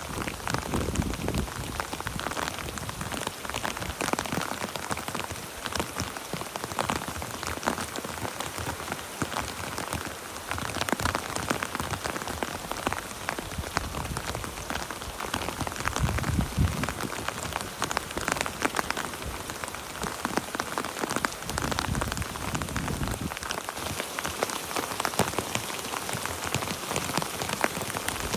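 Heavy rain falling on a tent's fabric: a dense, steady patter of drops. A few low buffets come through about halfway in and again later.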